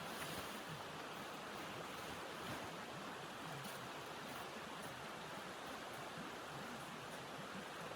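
Steady rushing wind noise, with a few faint light ticks.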